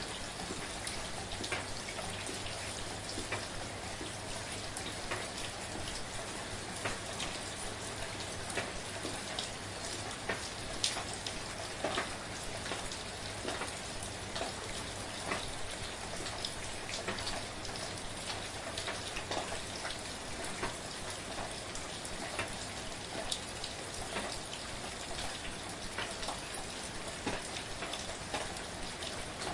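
Steady, gentle rain, with individual drops pattering and ticking on a surface over a continuous hiss.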